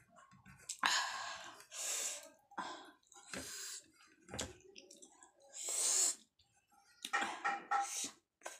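Close-miked eating sounds of a person eating by hand: chewing and mouth smacking in a string of short, irregular bursts.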